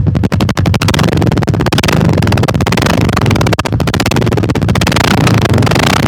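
Royal Enfield Classic 350's single-cylinder engine running, its exhaust giving a rapid, even beat of firing pulses.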